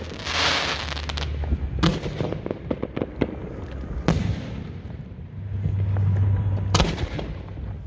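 Aerial fireworks bursting close by: a hissing crackle of sparkling shells in the first second and a half, sharp bangs about two, four and seven seconds in, and scattered smaller pops in between.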